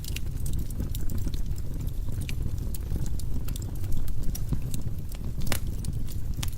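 Wood logs burning in a fireplace: a steady low rumble of flames with frequent irregular crackles and pops, one sharper crack about five and a half seconds in.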